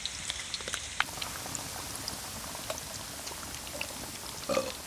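Chicken keema vadas deep-frying in hot oil: a steady sizzle with scattered small pops and crackles.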